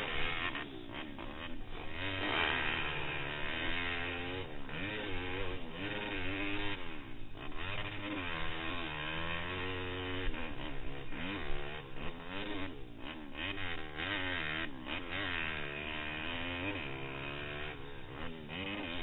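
Pitster Pro LXR160 pit bike's single-cylinder four-stroke engine revving up and down over and over, its pitch rising and falling every second or two as the throttle is opened and closed, heard from a helmet-mounted camera.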